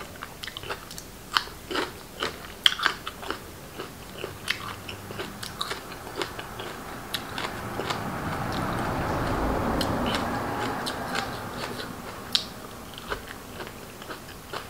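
A man chewing and crunching food close to the microphone, with crisp raw vegetables and bitter melon among it, giving irregular sharp crunches throughout. A soft rushing sound swells and fades in the middle.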